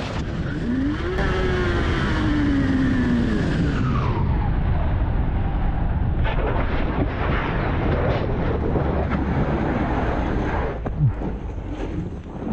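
Motorcycle engine running under heavy wind rush on a rider-mounted camera, its pitch rising and then falling over the first few seconds as the bike is ridden.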